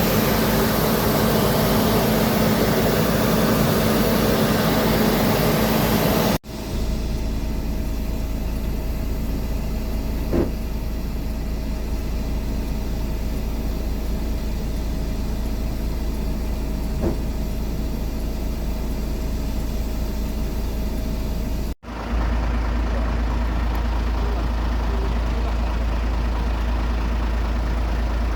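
Aircraft engines running steadily at an airfield, a loud continuous drone. It cuts off abruptly twice, and after the first cut a deep low rumble dominates.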